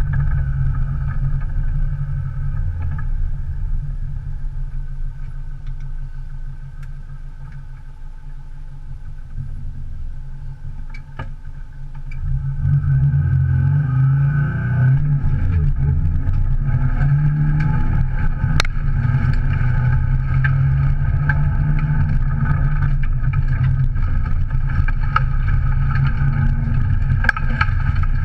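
Subaru Impreza 1.8 litre naturally aspirated flat-four heard from inside the stripped, caged cabin. It runs at a lower, quieter level for several seconds, then about twelve seconds in the car launches hard and the engine revs climb and stay high under full throttle through the gears. Occasional sharp ticks sound through it.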